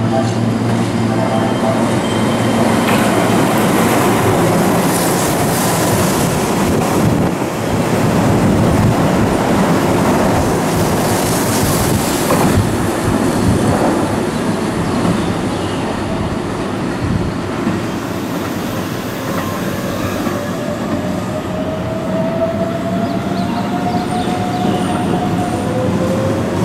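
Keihan 8000 series electric train running on the track, wheels clattering over rail joints and points. In the last few seconds a motor whine rises slowly in pitch as the train pulls away.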